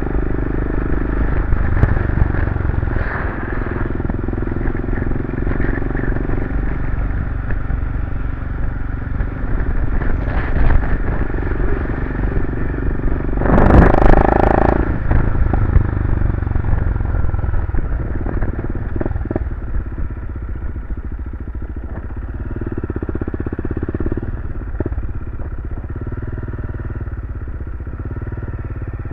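BMW F650CS single-cylinder engine running through an aftermarket Barracuda RX-Max slip-on exhaust while the bike is ridden, heard from a helmet cam. About halfway through there is a brief, louder burst of noise.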